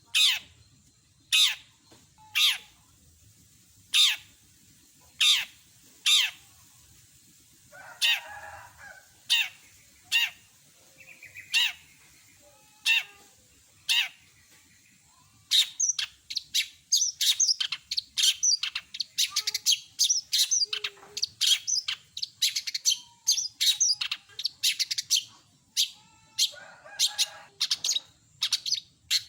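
Long-tailed shrike (cendet) singing: a run of sharp, downward-sweeping calls about a second apart, with a harsh rasping note among them. About halfway through it breaks into a rapid, dense chatter of quick, varied notes, typical of the shrike's mimicked song phrases.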